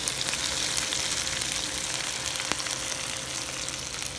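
Food sizzling and crackling as it fries in hot oil in a pan, with a single sharp pop about two and a half seconds in.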